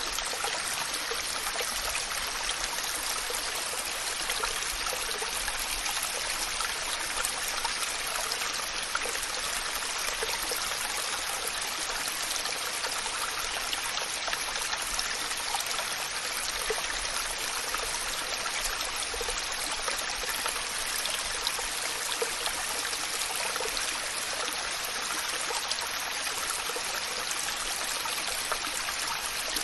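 Waterfall: a steady, even rush of falling water, a bright hiss with little low rumble.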